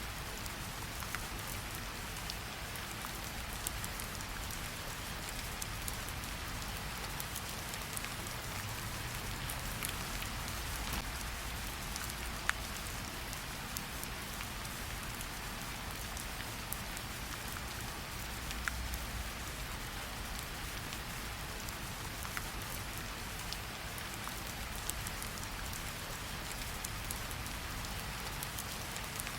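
Steady rain falling, an even hiss with scattered sharp drop ticks, one a little louder about twelve seconds in.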